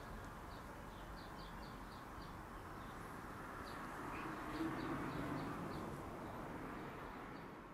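Faint background ambience with small birds chirping in quick series of short, high chirps, fading out at the end.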